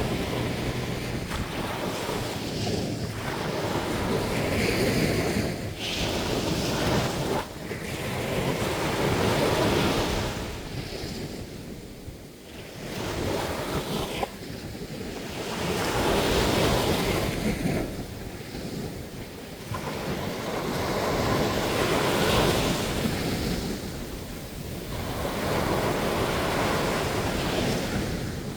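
Sea surf breaking on a beach, swelling and easing in repeated surges about every four to six seconds.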